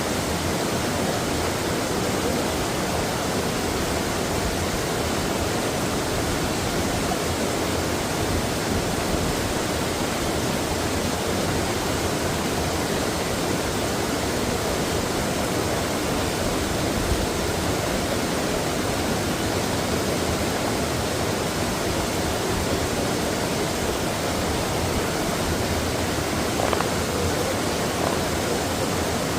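Mountain stream water rushing steadily over rocks, a continuous even flow with a faint splash near the end.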